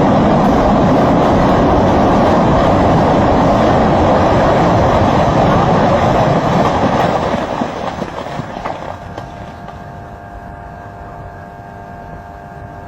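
Loud, steady rushing of a mud waterfall that fades away about seven to nine seconds in, leaving a quieter steady hum with a few held tones.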